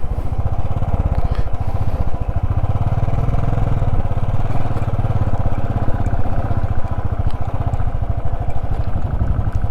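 Motorcycle engine running steadily, its fast, even firing pulses low and continuous.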